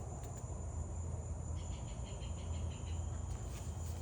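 Crickets chirring steadily in a high, unbroken drone over a low background hum, with a few faint clicks.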